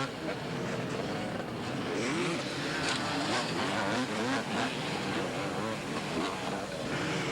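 Two-stroke motocross bikes racing, their engines revving up and down again and again in pitch.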